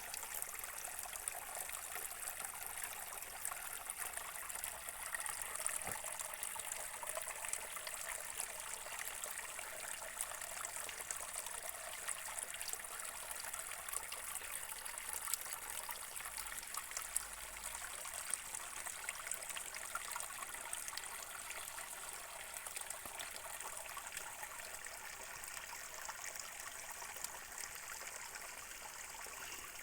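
Water trickling and splashing steadily in a small stream, with many small drips and splashes, easing slightly near the end.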